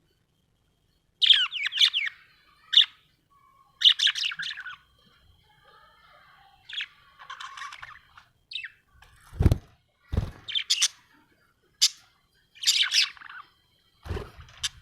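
Budgerigar chirping and chattering in short bursts of quick, rapid notes, with a few dull thumps about two-thirds of the way through and near the end.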